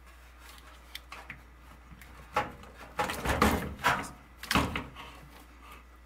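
Handling noise at the bottom of a front-load washer: a few light clicks, then a cluster of loud scrapes and knocks in the middle.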